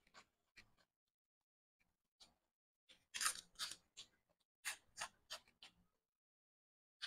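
Crisp crunching of raw vegetables being bitten and chewed: a few faint crunches, then a quick run of about nine louder crunches from about three seconds in.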